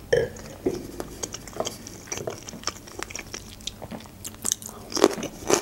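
Close-miked mouth sounds of a person chewing soft food: irregular wet clicks and lip smacks, a few louder ones near the start and near the end.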